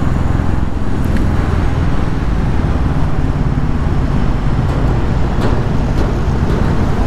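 Royal Enfield Classic 350's single-cylinder engine running steadily while riding, mixed with wind and road noise.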